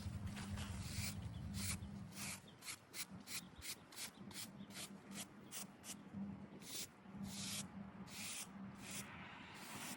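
Hand scrubbing of a headstone's stone surface in quick, rhythmic back-and-forth strokes, about two to four a second, with a steady low hum underneath.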